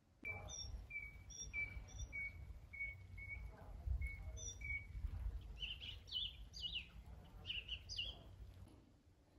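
Birds singing outdoors: a run of short repeated chirps, about two a second, then quicker chirps sweeping up and down over the last few seconds, over a low background rumble.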